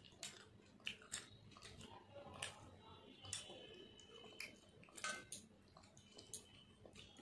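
Faint close-up eating sounds: a person chewing mutton curry eaten by hand, with irregular wet clicks and lip smacks about once or twice a second.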